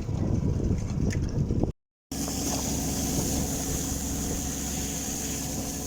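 Wind buffeting the microphone on a boat at sea, broken off by a brief dropout at an edit, then a boat engine running steadily with a thin high whine over it.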